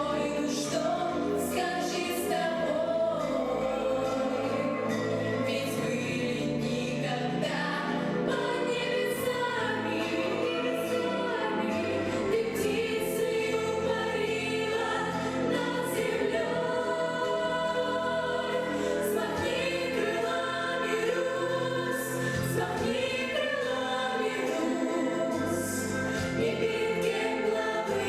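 Children's choir singing with instrumental accompaniment, held pitched notes over a steady low bass line.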